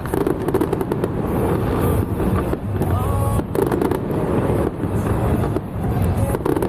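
Fireworks and firecrackers going off in a dense, continuous crackle of rapid bangs over a low rumble.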